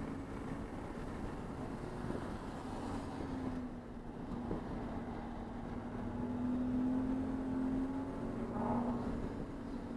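Race car engine running hard at sustained high revs, with dense road and wind noise. Its note sags slightly about a third of the way in, then picks up again.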